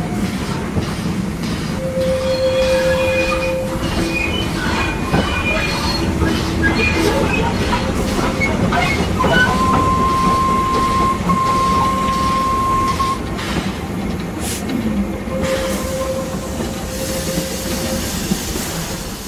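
Railway train rolling slowly, with a steady rumble and clanking of wagons on the rails. The wheels squeal in long held tones three times.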